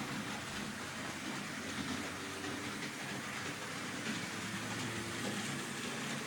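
Märklin H0-scale model train running along the track: a steady small-motor hum mixed with the rattle of wheels on rails.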